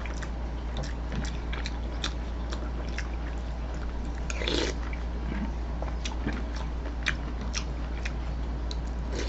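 A person chewing food close to the microphone: soft, irregular mouth clicks and smacks, with one slightly louder mouth sound about halfway through, over a steady low hum.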